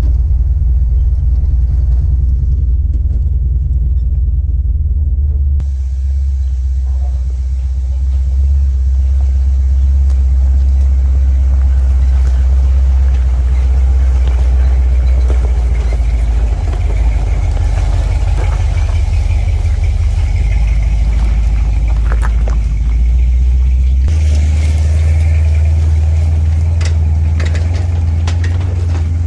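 First-generation Dodge Ram pickup driving on a gravel road, a steady, loud low rumble of engine and road noise. The rumble shifts about six seconds in and again near the end, with a few short rattles near the end.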